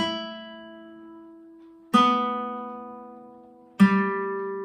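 Concert guitar strings plucked one at a time: three single notes about two seconds apart, each ringing on and fading. It is a final check of the freshly tuned strings.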